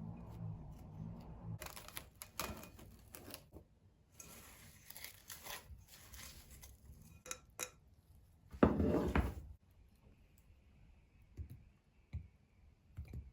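Kitchen food-preparation sounds: light knocks and clicks with stretches of rustling, and a louder rushing burst lasting about a second past the middle.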